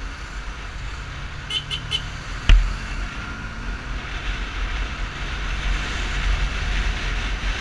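Yamaha Fazer 250's single-cylinder engine and wind noise while riding through traffic, with a sharp thump about two and a half seconds in. The noise builds toward the end as the bike picks up speed.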